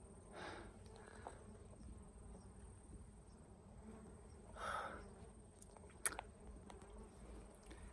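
Honeybees buzzing faintly as a low steady hum, with a couple of short puffs of noise and one sharp click about six seconds in.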